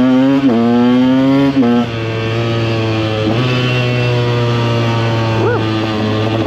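KTM EXC 125's two-stroke single-cylinder engine pulling hard through the gears, its note rising and dropping with quick upshifts about half a second in, near two seconds and after three seconds, then running steady at cruising speed.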